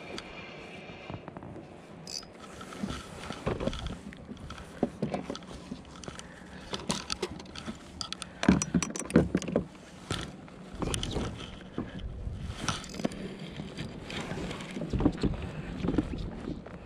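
Water splashing and slapping against a kayak, with irregular knocks, loudest about halfway through.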